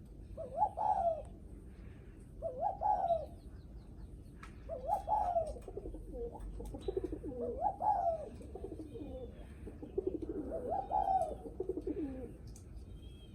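Spotted dove cooing: the 'guest' coo it gives when another dove comes near. Short coo phrases repeat about every two and a half seconds. Lower, quickly pulsed coos come between them in the second half.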